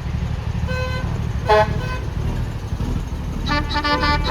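Vehicle horns tooting: a short toot, then a louder short blast about a second and a half in, then a quick run of short toots near the end, over a steady low rumble.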